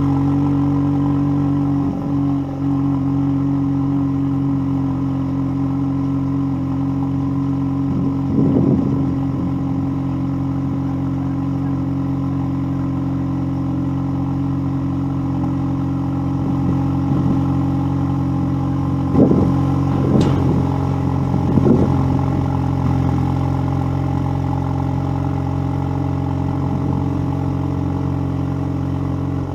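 Ford Focus ST's engine idling steadily just after a cold start, at a constant pitch. A few brief louder swells come about 8 seconds in and again around 19 to 22 seconds, with a sharp click among them.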